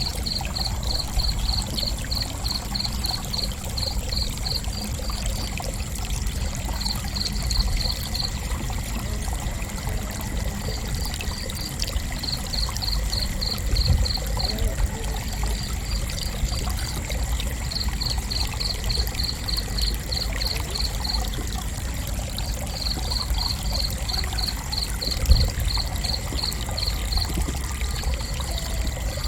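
Crickets chirping in runs of short high chirps, about four a second, breaking off every few seconds and starting again. Under them run a faint steady high-pitched insect trill and a low rumbling background, with one brief thump about twenty-five seconds in.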